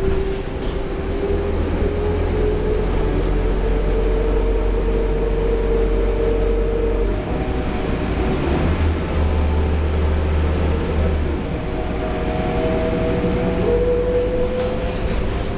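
Scania K230UB bus running with its Scania DC9 diesel engine and ZF Ecomat automatic gearbox: a low rumble under a whine that rises slowly, drops about seven seconds in, then climbs again near the end.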